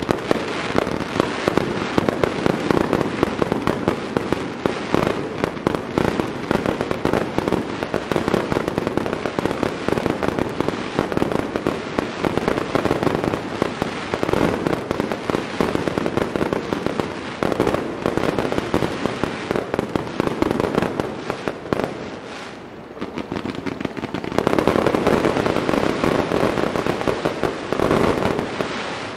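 Finale of a professional fireworks display: a dense, continuous barrage of shell bursts and rapid pops. It eases off briefly about three quarters of the way through, then comes back in one last dense volley that dies away near the end.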